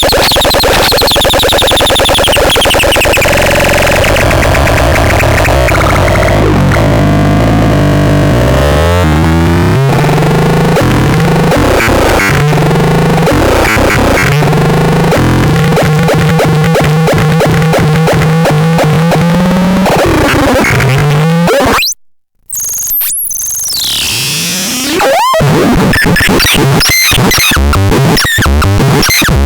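Harsh electronic noise from the DOBLEX synthesizer-type sound device, with stepping low notes under a dense hiss and squeal. It cuts out abruptly about two-thirds of the way through, returns with a rising sweep, and breaks into rapid stuttering pulses near the end.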